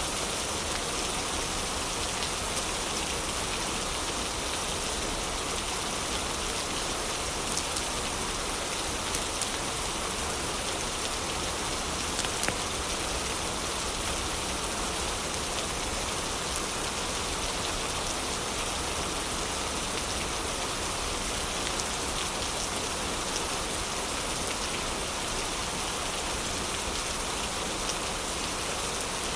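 Heavy rain falling in a steady hiss, with occasional faint crackles of a fireplace.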